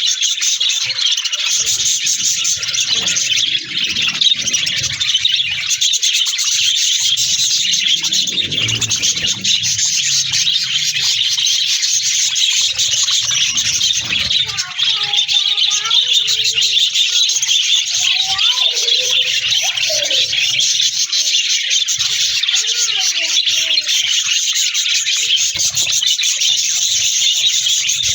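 A flock of budgerigars chattering continuously: a dense, unbroken mass of fast, high chirps and warbles, with some lower warbling notes in the second half.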